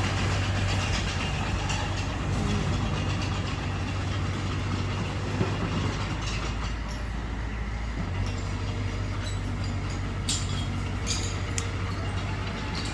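Diesel engine of a Mitsubishi BD2F crawler bulldozer running steadily as it works, its note shifting about eight seconds in, with a few sharp clanks near the end.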